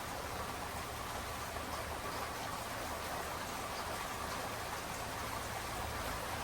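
Steady rain falling at night, an even hiss with faint scattered drop ticks.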